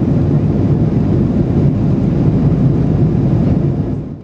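Steady engine and airflow noise inside the cabin of an Airbus A330-300 in flight, a low, even roar that fades out near the end.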